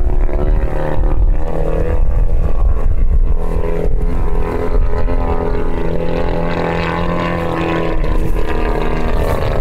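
Two-stroke 100cc gasoline engine of a giant-scale aerobatic RC plane running in flight, its pitch rising and falling as the throttle is worked through 3D manoeuvres.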